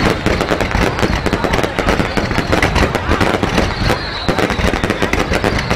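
Fireworks display: a dense, unbroken barrage of bangs and crackling bursts, many overlapping each second.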